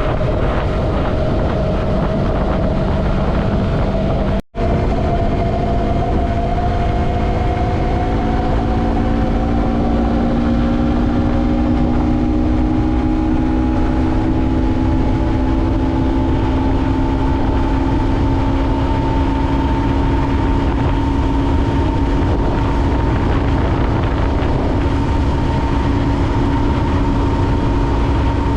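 Yamaha MT-03 motorcycle engine running under way, with wind rush; its pitch climbs slowly and steadily as the bike gathers speed. The sound cuts out for an instant about four seconds in.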